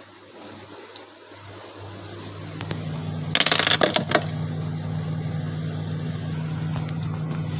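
Samsung refrigerator switched back on after its fan motor was replaced, running with a steady low hum that grows louder and higher about two and a half seconds in. A brief loud rattling clatter comes around the middle.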